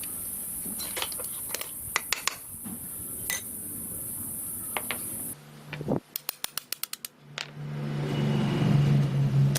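Light clicks and small metal knocks from parts being handled, then a quick run of about eight clicks followed by a small motor starting up and running with a steady low hum that grows louder over the last two seconds.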